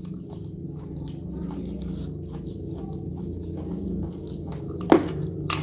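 A person chewing food, with many small irregular wet clicks and crunches, and one sharp, louder click about five seconds in.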